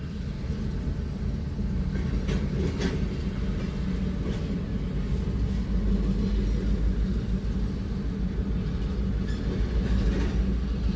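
Freight train rolling past: a steady low rumble with a few faint clicks from the wheels and cars.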